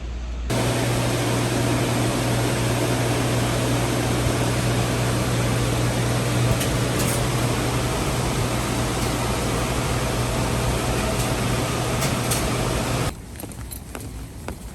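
Steady machine hum with a fan-like rush, starting suddenly about half a second in and cutting off sharply near the end.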